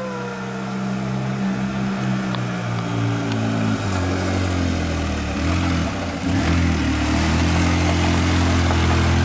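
Motorboat engine running close by, its pitch rising about four seconds in and getting louder a little past six seconds as it speeds up.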